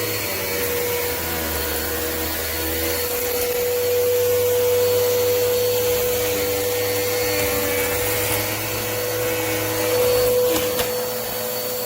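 Bissell CleanView upright vacuum running at full speed with a steady motor whine. It is switched off right at the end, its pitch falling as the motor winds down.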